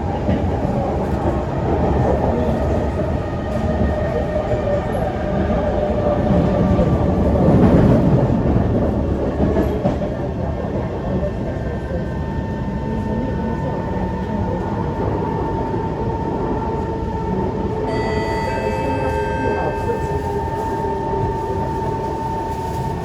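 Kawasaki C151 metro train heard from inside the car while running between stations: steady wheel-on-rail and running noise, with an electric traction whine that holds one pitch from about halfway and picks up several higher tones near the end.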